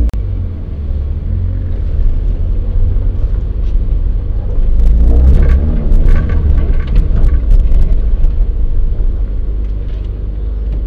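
Renault Clio 1.8 16V four-cylinder engine running at low speed, heard from inside the car as a deep, steady rumble while it rolls slowly over a gravel track. The rumble swells in the middle, with scattered crackles and knocks, and eases off near the end as the car slows.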